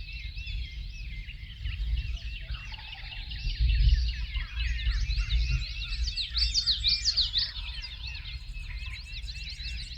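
Spring morning chorus of many songbirds chirping and singing at once, with the calls most crowded about two-thirds of the way through, over a low steady rumble.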